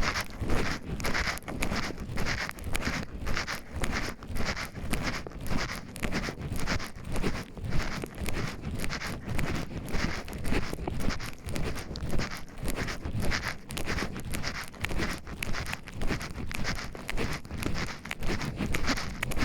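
Footsteps walking along a forest path at a steady stride of about two steps a second.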